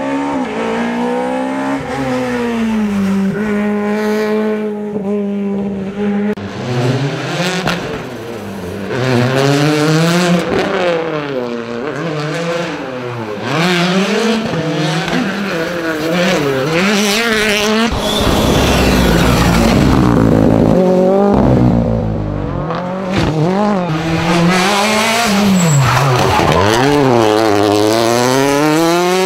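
Rally cars on a special stage, engines revving hard and falling back again and again through gear changes and throttle lifts, with tyre squeal. A louder rushing stretch comes about two-thirds of the way through.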